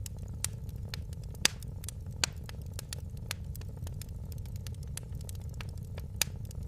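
Wood fire in a fireplace crackling, with irregular sharp pops, the loudest about a second and a half in and again near the end, over a steady low rumble.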